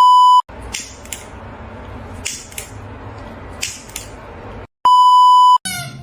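Two loud, steady electronic bleep tones, each under a second long, one at the start and one near the end. Between them runs about four seconds of quieter hissy sound with a few short sharp scuffs.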